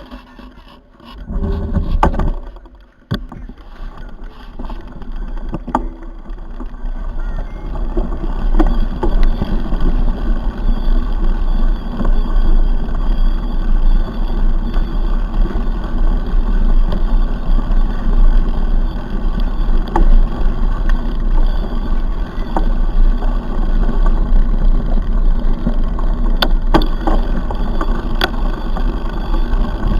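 Steady wind rumble on the microphone and rolling noise with scattered clicks and rattles, as from a camera riding along on a mountain bike on a trail. It builds up over the first several seconds.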